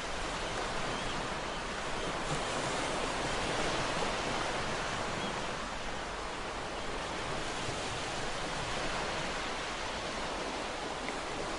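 Ocean surf, waves breaking and washing in as a continuous rush that swells about four seconds in and then eases off.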